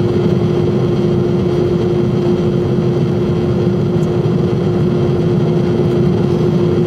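Jet airliner heard from inside the passenger cabin after take-off: steady engine and airflow noise with a constant low hum running through it.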